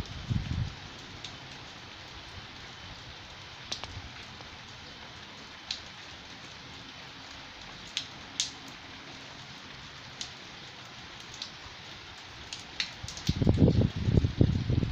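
Steady rain falling as an even hiss, with scattered single drops striking close by as sharp ticks. Loud, low, rumbling bursts come at the very start and again through the last couple of seconds.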